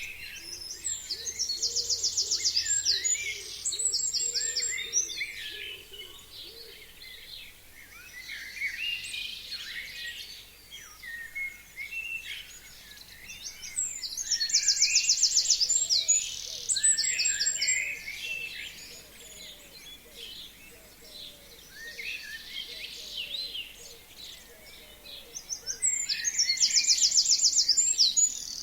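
Several forest birds singing together in spring. One bird repeats a loud, fast trilled song about every twelve seconds, three times, while others keep up a steady chatter of chirps and calls.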